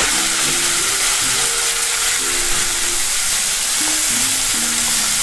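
Chopped fresh fenugreek leaves frying in hot oil in a metal kadhai, a steady sizzle as a metal spatula stirs them. A soft melody of short notes plays underneath.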